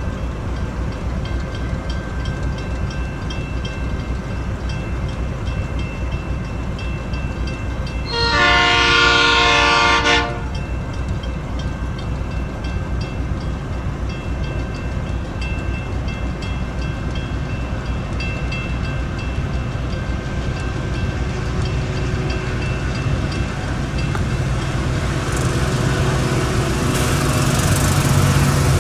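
Diesel-hauled freight train passing, its wagons rumbling with a steady rapid clacking of wheels over the rails. About eight seconds in, the locomotive's horn sounds one chord-like blast of about two seconds, and near the end a diesel engine grows louder.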